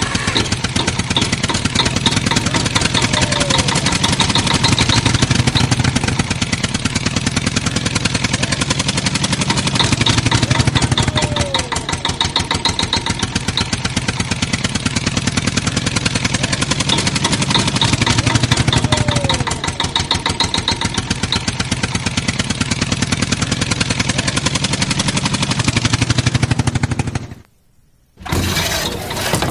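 Engine running steadily with a fast, even pulse. It cuts out briefly near the end and then resumes.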